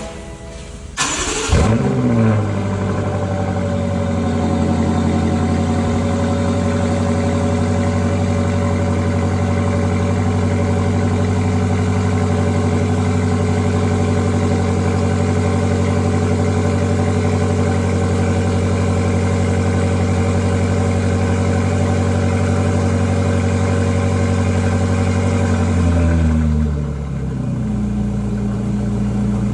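BMW M5 CS's twin-turbo V8 cold start. The starter cranks briefly about a second in, and the engine catches with a rev flare, then settles into a steady fast cold idle. Near the end the idle drops to a lower speed.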